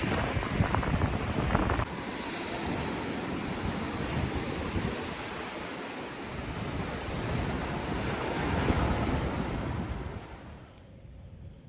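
Sea waves washing onto the shore, with wind buffeting the microphone for the first two seconds. The surf swells about nine seconds in, then fades away near the end.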